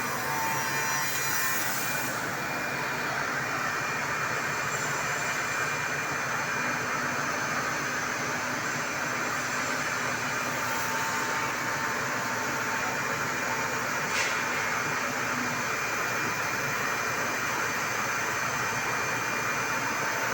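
Four-axis CNC router running, machining a chair leg: a steady whine from the spindle over an even hiss of cutting, with one short click about 14 seconds in.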